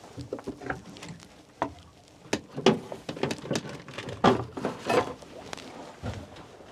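Irregular knocks and clattering of gear being handled and moved around in a boat, with several loud sharp knocks in the middle.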